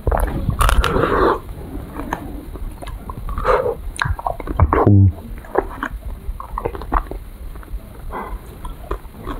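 Close-miked chewing and biting on a chocolate-coated ice cream bar, in irregular short crackly bites and mouth sounds. A single dull thump comes about halfway through.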